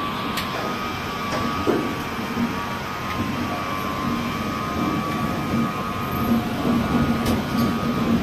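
Passenger train coaches rolling slowly out of a station, heard from an open coach door: a steady rumble of wheels on the track under a constant hum, with a few faint clicks.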